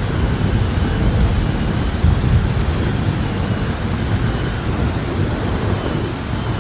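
Steady heavy rain with a deep, continuous thunder rumble.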